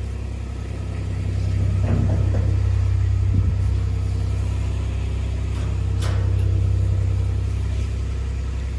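Vehicle engine running steadily with a low, even drone, while towing a trailer of haylage, with a few faint knocks.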